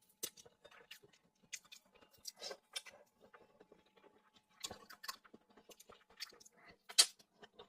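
A person chewing and eating sweet shrimp close to the microphone: irregular wet smacks and small clicks of the mouth and food, with one louder click about seven seconds in.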